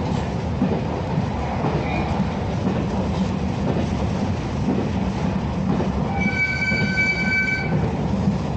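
Steady rumble of a moving train heard from inside the carriage. About six seconds in, a high-pitched squeal with several overtones sounds for about a second and a half, then stops.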